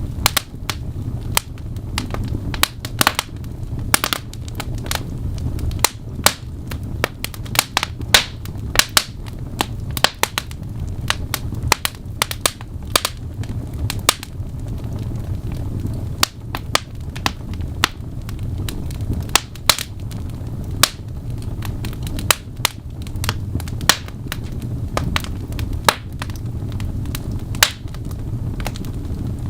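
Wood fire in a fireplace crackling, with sharp pops coming at irregular intervals, several a second at times, over a steady low rumble of the flames.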